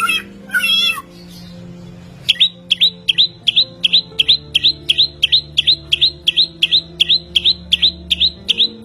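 Chinese hwamei (samyong) singing: a quick varied warbled phrase, then after a short pause one sharp note repeated about four times a second, fast and steady.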